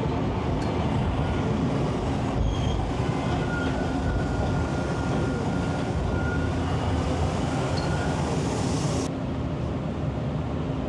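Toronto subway train running, heard from inside the car: a steady rumble and rail noise, with a thin whine for a few seconds in the middle. About nine seconds in, the high hiss drops off abruptly.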